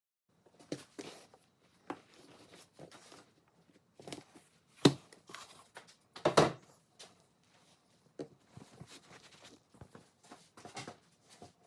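Hands working at a kitchen counter: irregular light rustles and taps, with two louder knocks about five and six and a half seconds in.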